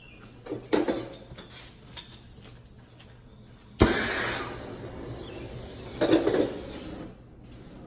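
Metal parts clink about a second in. About four seconds in a torch lights with a sudden pop and a hissing rush, swelling again near the end. This is the torch heating the small end of a connecting rod so the piston pin can be slid in.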